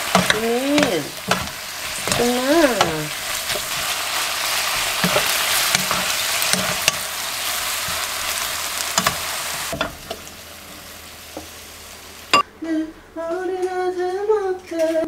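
Sliced pork belly and green onions stir-frying in a wok, sizzling as a soy-based sauce is poured in, with a wooden spoon tapping and scraping the pan. The sizzle stops abruptly about ten seconds in, and a woman hums a tune near the end.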